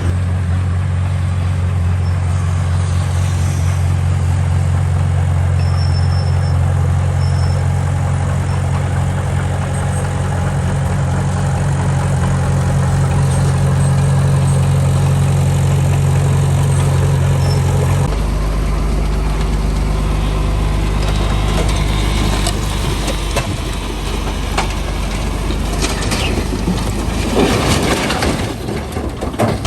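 Heavy diesel engine of earthmoving machinery running steadily, its note dropping to a lower pitch about two-thirds of the way through. Near the end come a series of knocks and clatter.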